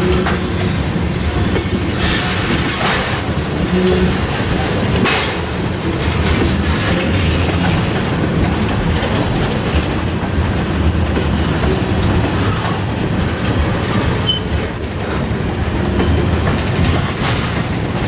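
Freight train cars rolling along the track, their wheels clicking repeatedly over rail joints over a steady rumble, with a brief high wheel squeal about fifteen seconds in.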